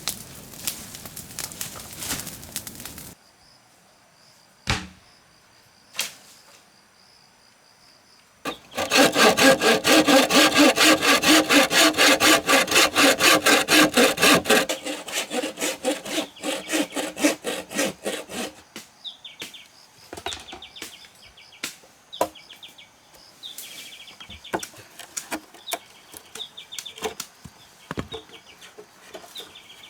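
Saw cutting bamboo with fast, even back-and-forth strokes, loudest for about six seconds in the middle, then slowing and fading out. A few sharp knocks come before it.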